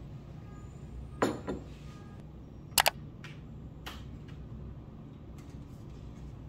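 Handling noises at a desk: a soft knock about a second in, then two quick sharp clicks just before the three-second mark and a fainter click a second later, over a steady low hum of room tone.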